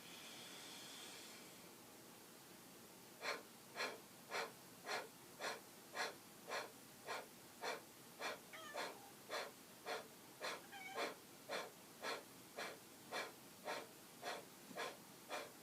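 Kapalabhati (skull shining) breathing: a long inhale, then from about three seconds in a steady series of short forceful exhales through the nose, about two a second, each driven by a sharp inward thrust of the belly.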